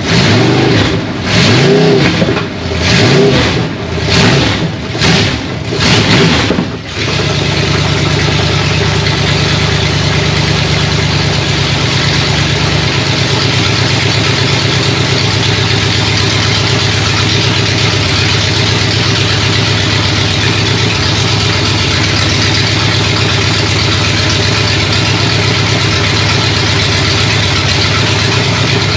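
Small-block Chevrolet 350 V8, just freed from being seized, running with no mufflers: blipped up and down roughly once a second for about the first seven seconds, then settling into a steady idle.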